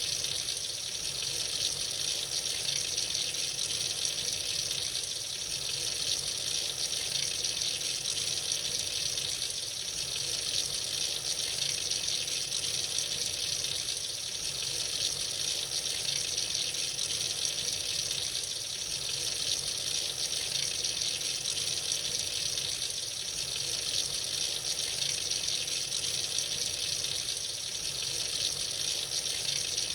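Tap running freely into a sink, a steady hiss of falling water that swells and eases slightly every few seconds.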